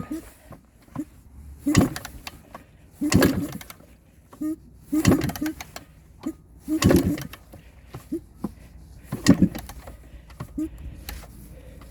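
Two-stroke engine of a Yamaha IT250 dirt bike being kick-started over and over, about five kicks roughly two seconds apart, turning over each time without catching: a cold engine that won't fire after sitting unused for months.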